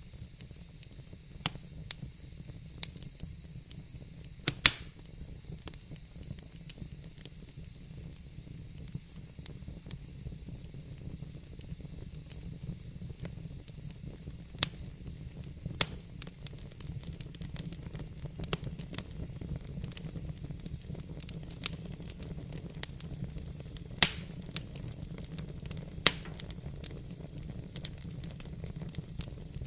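Wood fire crackling in a fireplace, with sharp pops at irregular intervals over a steady low rumble. Two pops, one about four seconds in and one near the end, stand out as the loudest.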